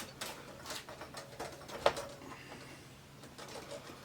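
Light clicks, taps and rustling from handling a TV's LCD panel as it is lifted off the set, with one sharper knock about two seconds in.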